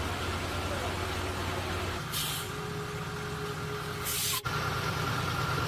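Steady low mechanical hum with two short bursts of hissing air, about two seconds in and again about four seconds in, followed by a brief dropout.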